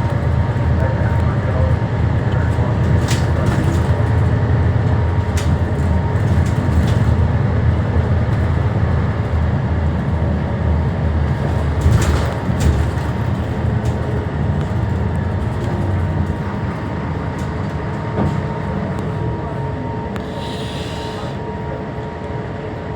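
Scania K320HB bus's diesel engine running, with road noise and occasional body rattles and knocks heard from inside the cabin; a sharper knock comes about halfway through, and the engine and road noise ease off toward the end.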